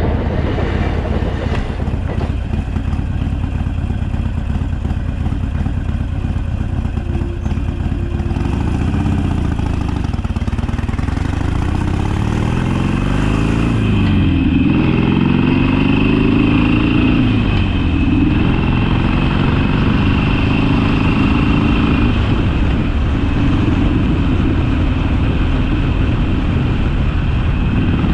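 Harley-Davidson Sportster's V-twin engine running while the bike is ridden. The engine note dips and rises several times in the middle stretch as the revs change.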